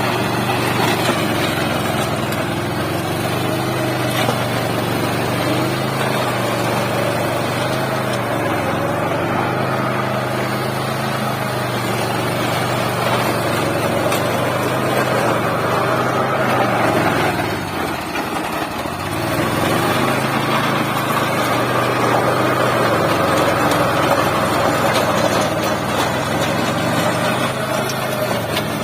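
Small tractor engine running steadily under load while driving a rotavator through soil; its note dips briefly about two-thirds of the way through, then picks up again.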